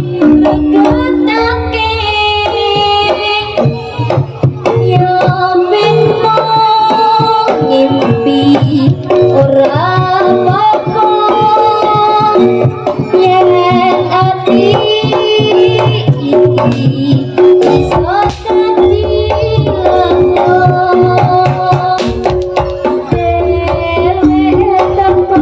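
Javanese jaranan ensemble playing: hand drums beating a busy rhythm under a wavering, gliding melodic lead line.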